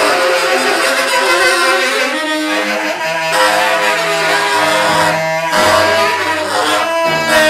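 Free-improvised music: tenor saxophones and a bowed cello holding dense, overlapping sustained tones that shift pitch together a couple of times.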